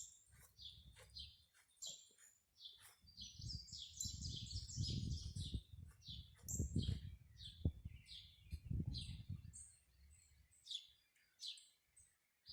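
Small birds chirping over and over in quick, high notes, with a thick flurry of chirps around a few seconds in. Low rumbling swells come and go through the middle.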